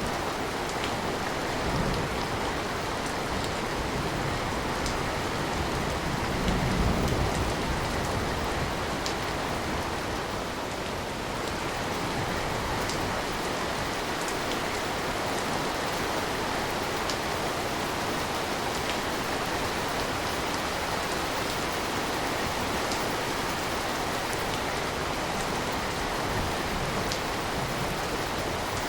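Steady rain falling, with scattered individual drops ticking on a surface like a window or sill. A brief low swell rises and fades about seven seconds in.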